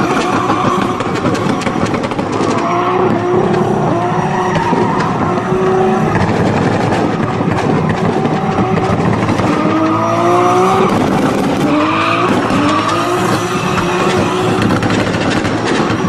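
Toyota Supra MK4's 2JZ-GTE inline-six engine revving hard, climbing in pitch several times as it pulls, with tyres squealing under the car.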